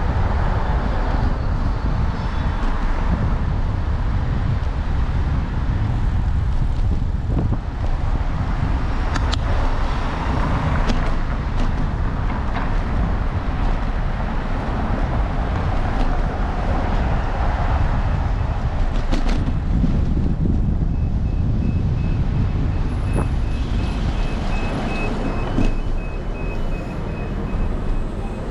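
City street traffic heard from a moving bicycle: steady engine and tyre rumble from passing cars and trucks, mixed with wind on the microphone and a few short clicks. Near the end a faint high beeping repeats.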